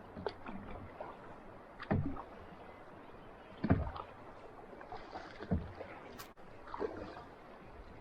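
Kayak paddle strokes splashing in the water, one about every two seconds.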